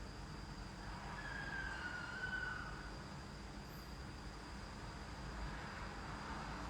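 Quiet room tone: a steady low hum and a faint high whine, with a faint brief falling tone about a second in.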